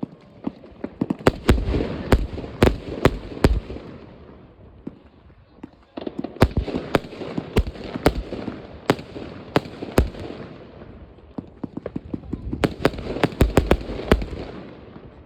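New Year's Eve fireworks going off all around: rapid sharp bangs and crackling in three waves, each a couple of seconds of dense reports that then thin out.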